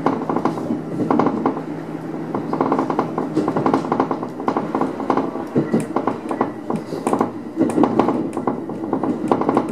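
Three-car electric multiple unit running on the line, heard from the driver's cab: a steady running rumble with wheels clattering over the rails and cab fittings rattling in irregular clusters of sharp clicks.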